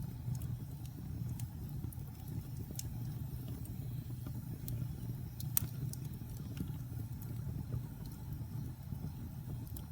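Wood fire burning in a fireplace: a steady low rumble of the flames with scattered sharp crackles and pops from the logs, the loudest pop about five and a half seconds in.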